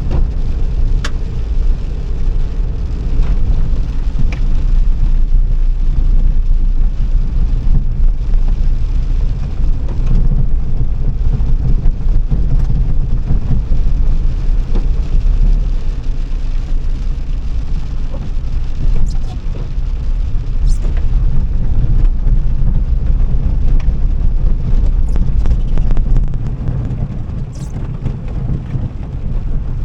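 Car on the move: a steady low rumble of engine and road noise, with a few faint clicks and rattles scattered through it.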